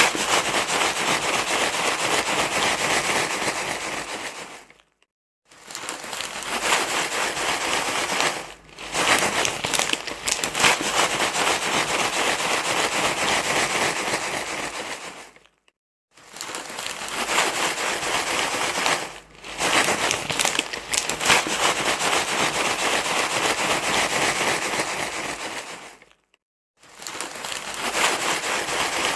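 Crinkly material rustled and crumpled continuously, a dense crackling rustle in stretches of a few seconds broken by short pauses, the same pattern repeating about every ten seconds; a looped soothing rustle played to calm a crying baby.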